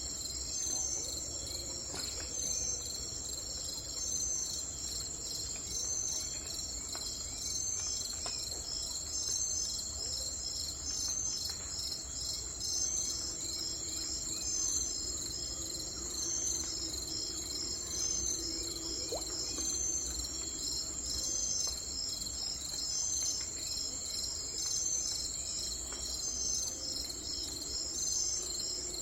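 A dense chorus of insects, cricket-like, chirring steadily in a high pitch with a fast, even pulsing, over a faint low rumble.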